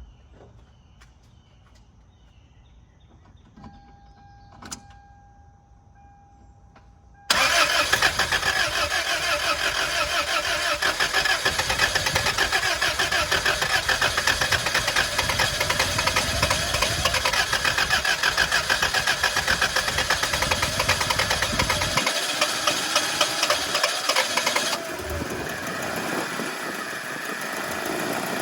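A 1999 Toyota Tacoma PreRunner's starter cranks the engine for about seventeen seconds after a few quiet seconds with faint clicks. Near the end the engine catches and settles into running. The long crank is the hard-starting condition.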